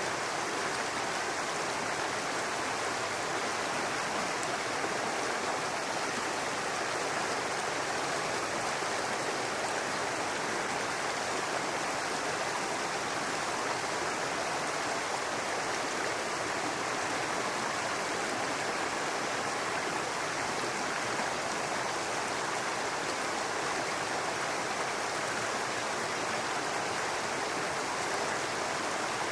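A babbling brook: shallow water running steadily over rocks, an even rushing and burbling that doesn't change.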